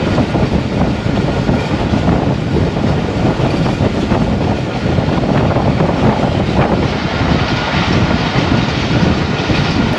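Passenger train rolling at cruising speed: a steady, loud rumble and rush of the wheels on the track, heard on board.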